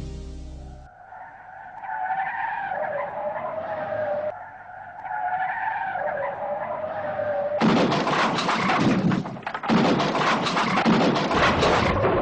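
Car tyres squealing in two long, wavering skids. About two-thirds of the way through, a loud, harsh crashing and crunching noise with rapid sharp strokes takes over, as in a car collision.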